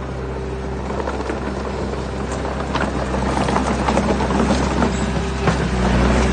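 Heavy diesel machinery engine running steadily under load, with a dense clatter of rocks and stones knocking and scraping through the middle, with sharper knocks a few times.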